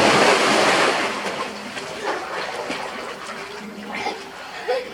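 Swimming-pool water splashing as people jump in. It is loudest at the start and fades over about a second and a half into churning, lapping water.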